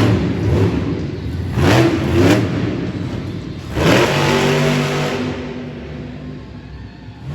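Monster truck engine revving in bursts: two quick revs about two seconds in, then a bigger rev about four seconds in that falls back to a steadier running note and fades away near the end.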